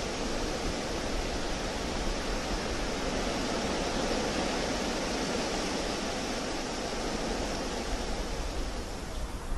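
Wind blowing steadily, a broad rushing noise that eases slightly near the end.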